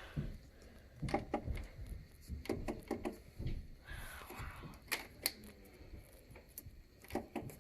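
Irregular clicks and light taps of buttons being pressed on a Whirlpool portable air conditioner that does not start: no fan or compressor comes on.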